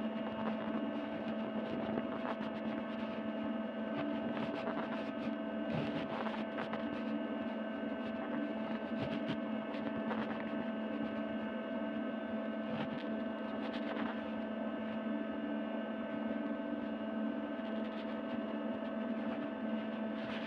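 A steady hum of several held tones at an even level, with a few faint clicks now and then.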